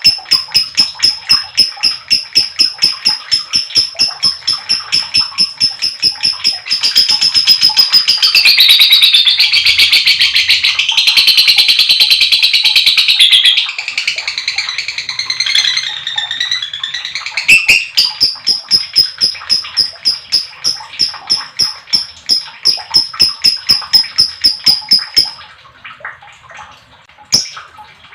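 Lovebird giving its long 'ngekek' chatter: a fast, even run of sharp, high chirps, several a second. In the middle it turns into a denser, louder warbling chatter for several seconds, then the chirp run resumes and breaks up into scattered chirps near the end.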